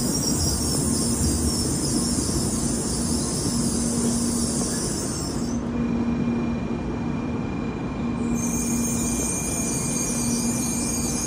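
N700A Shinkansen train pulling slowly into the platform and coming to a stop: steady running noise, with a thin high squeal, typical of the brakes in the final metres, setting in about halfway through and holding. A low tone pulses on and off about once a second throughout.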